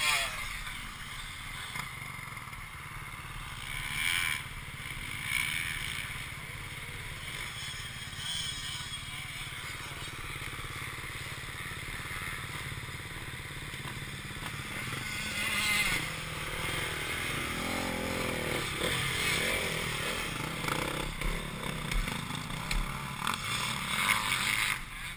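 Motocross motorcycle engines running, fairly quiet throughout, with a few brief louder swells about four, five and sixteen seconds in.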